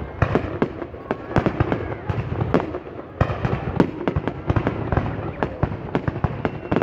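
Fireworks going off: a rapid, irregular run of sharp bangs and crackles, several a second, with a faint whistle here and there between them.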